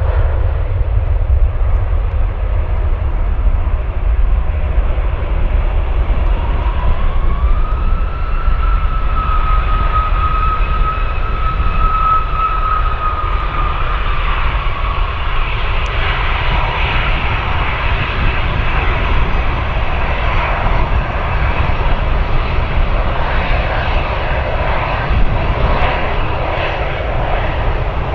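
Jet airliner's engines over a steady low rumble. About seven seconds in, a whine rises and holds, then gives way to a broader, fuller rush of engine noise for the second half.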